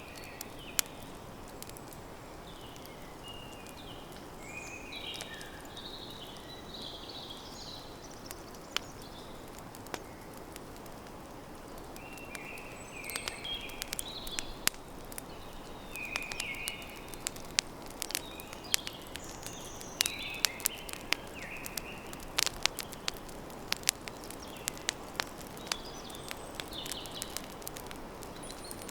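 Campfire crackling with many sharp pops, more frequent in the second half, over a steady hiss. Small birds chirp in short phrases.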